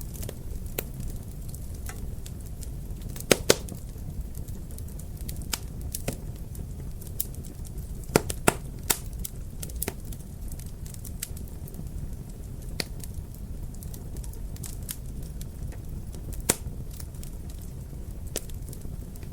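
Wood fire crackling: a steady low rumble under frequent irregular sharp pops. The loudest pops come as two pairs, about three and about eight seconds in, and one more stands out near the end.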